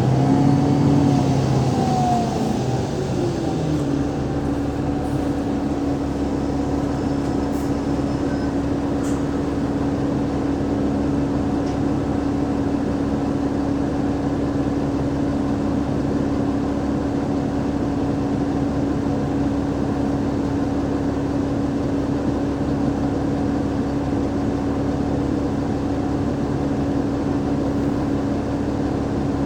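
Onboard sound of an Alexander Dennis Enviro500 MMC double-decker bus with a Cummins ISL8.9 diesel engine and ZF Ecolife six-speed automatic gearbox. The engine and driveline note sweeps down in pitch over the first few seconds, then settles into a steady hum that holds one constant tone.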